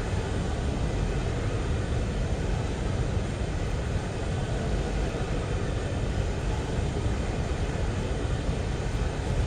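A train rolling past, a steady low rumble that does not change.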